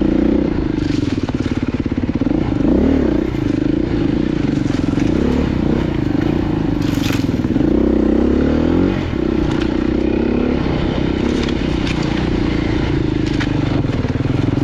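Off-road motorcycle engine running under load, its pitch rising and falling several times with the throttle, with scattered clicks and scrapes of loose stones under the tyres.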